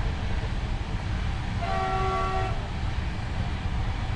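Steady running rumble of a passenger train heard from inside the coach. About two seconds in, a train horn sounds one short blast of just under a second.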